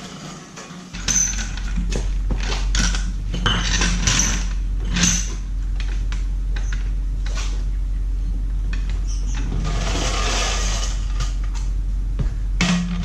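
Metal clinks, knocks and clatter of shop work, over a steady low hum that starts about a second in. There is a longer scraping or rustling noise around ten seconds in.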